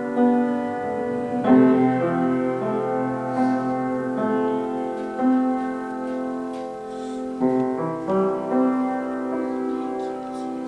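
Slow, sustained keyboard music, piano or electric piano chords held and changed every few seconds.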